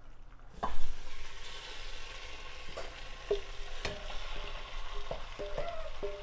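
Okra and tomato sauce scraped with a wooden spoon from a frying pan into a hot stainless steel pot, sizzling steadily as it lands and is stirred. A few sharp knocks of the spoon against the pan and pot, some with a brief metallic ring.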